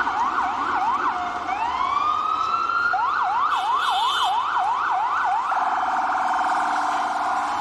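Emergency vehicle siren passing through its patterns: a fast yelp, about three sweeps a second, breaks into one slow rising wail, goes back to the fast yelp, then switches to a very rapid warble near the end. Steady city street and rain hiss lies underneath.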